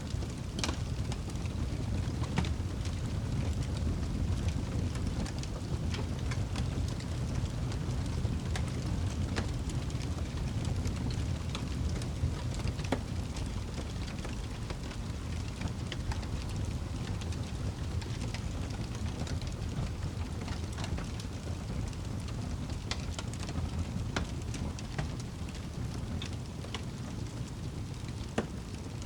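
Log fire burning in a fireplace: a steady low rumble of the flames with scattered sharp crackles and pops from the wood at irregular intervals.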